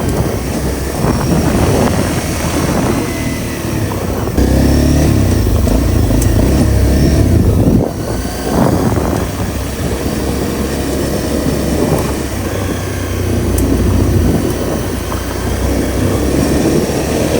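Honda CRF250L's single-cylinder four-stroke engine running under way, opened up and louder for a few seconds about four seconds in, then easing off about eight seconds in.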